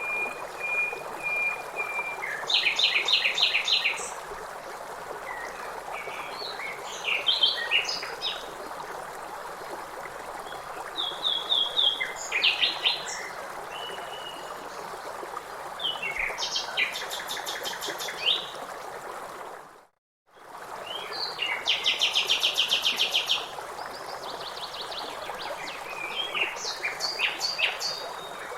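Songbirds singing and calling in repeated short phrases, several of them rapid trills, over the steady rush of river water. About two-thirds of the way through, all sound drops out for a fraction of a second.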